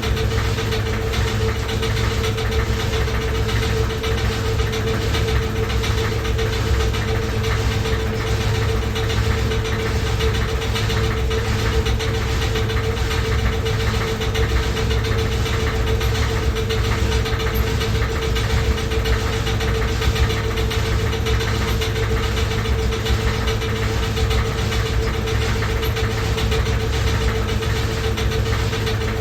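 Loud washing machine running, a steady mechanical drone with a constant whine and an even, regular pulsing.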